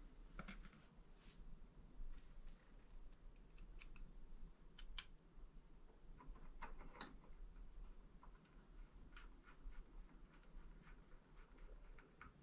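Faint, scattered clicks and light taps of small metal parts and bolts being handled, with a sharper click about five seconds in and a short run of taps a little later.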